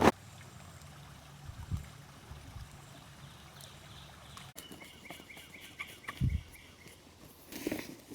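Quiet outdoor ambience with a sharp knock at the start, then a few soft, low thumps and a brief clatter near the end.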